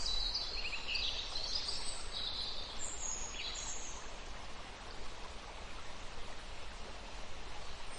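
Steady hiss of running water, with a few short, high bird chirps in the first few seconds.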